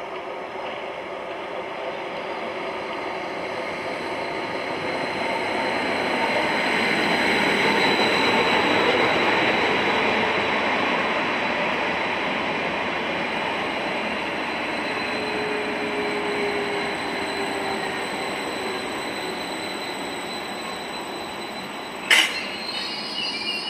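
Greater Anglia Class 755 Stadler FLIRT multiple unit running in along the platform and braking to a stop. A steady rumble of wheels and running gear with a thin high whine builds to its loudest about eight seconds in, then slowly eases as the train slows. Near the end comes a sharp clank, followed by high squealing as it brakes.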